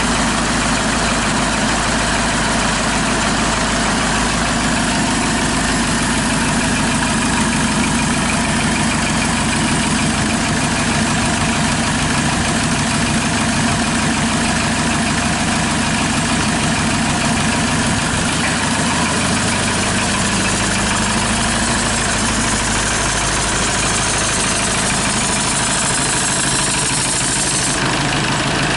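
Hyundai D4CB 2.5-litre four-cylinder common-rail diesel engine idling steadily, running bare on a test stand outside a vehicle.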